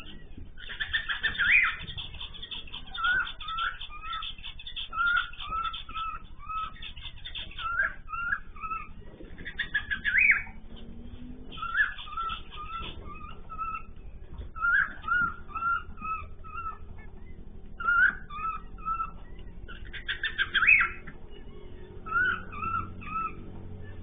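Cage birds in an aviary calling: many short, repeated chirps, a few per second, broken by louder bursts of rapid chatter about a second in, around ten seconds in and again around twenty seconds in.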